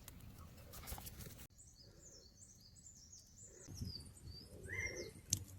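Small birds chirping in a quick run of short, high notes from about a second and a half in, over faint low background noise, with a couple of sharp clicks near the end.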